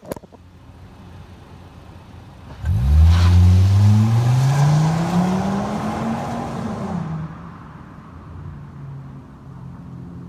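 Car engine breathing through a newly fitted Flowmaster Super 44 muffler comes in loud about two and a half seconds in and revs, its pitch climbing steadily for about four seconds, then drops back to a steady idle. The exhaust note is deep.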